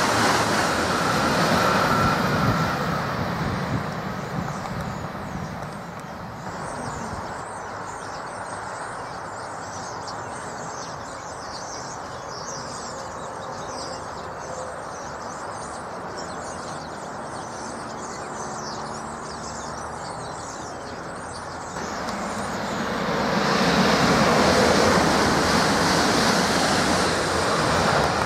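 Southeastern Class 395 Javelin high-speed electric train rushing past, fading away over the first few seconds. Then a steady, quieter rumble of an aircraft overhead, and from about 23 seconds in another Class 395 approaching and growing loud.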